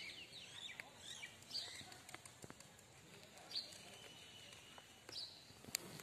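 Faint bird calls: a few short chirps that sweep in pitch, spaced a second or two apart, over a quiet outdoor background.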